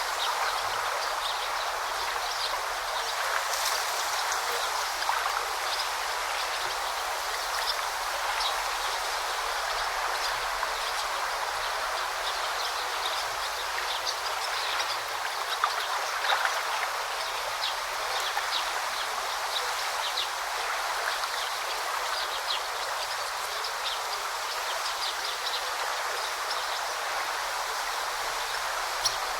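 Forest river babbling steadily: an even rush of running water, with many short high ticks scattered through it.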